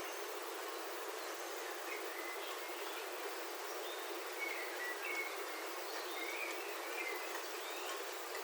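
Rain on a roof heard from inside, a steady even hiss, with birds outside giving short chirps, several of them about halfway through.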